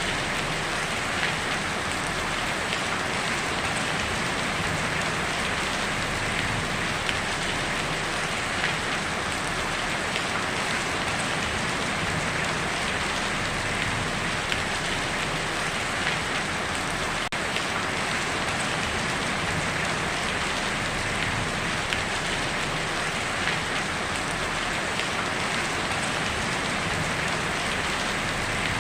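Steady heavy rain drumming on a tin roof, with small individual drop hits standing out now and then.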